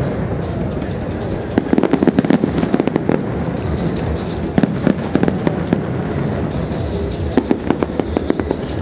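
Fireworks display: rapid crackling and popping of firework bursts, thickest in clusters about a second and a half in and again near the end.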